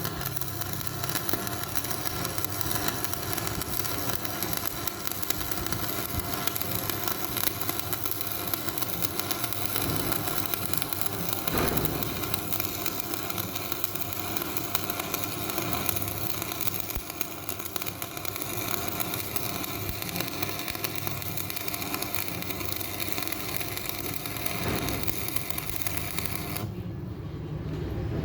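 Electric arc welding on a cracked steel truck wheel rim: a steady crackling hiss from the arc that cuts off shortly before the end, leaving a low hum.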